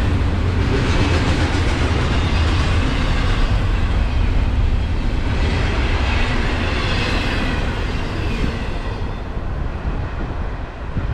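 Canadian National intermodal train rolling past: a steady rumble and hiss of steel wheels on rail, easing off in the last few seconds.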